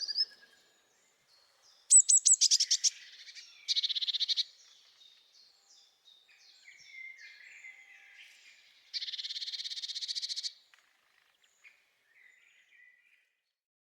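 Blue tit singing: a few high, thin notes leading into a fast trill, with another trill later and softer calls between.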